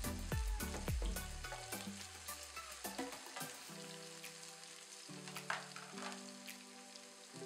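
Chopped vegetables sizzling and crackling in hot oil in a pan as they are stirred with a wooden spatula. Background music plays alongside: a thumping beat that fades out in the first two seconds, then held notes.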